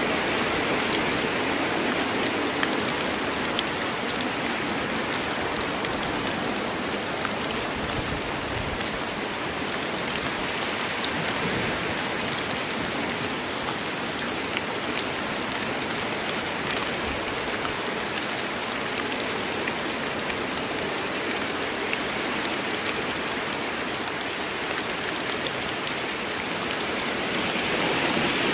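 Steady heavy rain falling in a forest, a dense even hiss of drops pattering on leaves and ground with fine individual drop ticks throughout.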